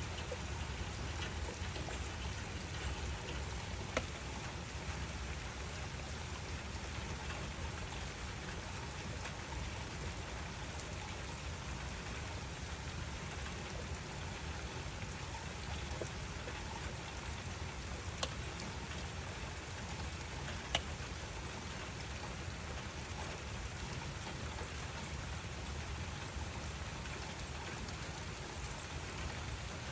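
Steady rain falling, an even hiss of many drops, with a few sharper single drop ticks standing out now and then.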